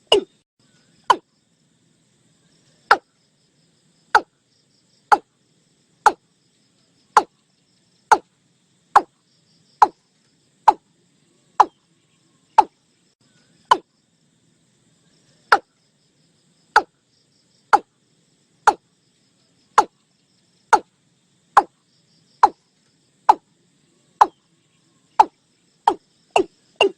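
Watercock calling: a series of deep, short 'kok' notes about one a second, each dropping in pitch, quickening into a fast run near the end.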